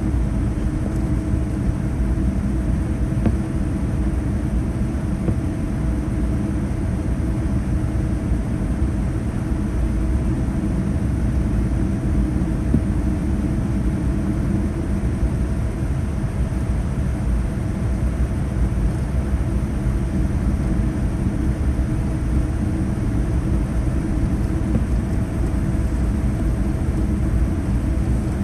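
Boeing 787-9 cabin noise heard from inside the cabin while the aircraft taxis after landing: a steady low rumble with a steady mid-pitched whine over it.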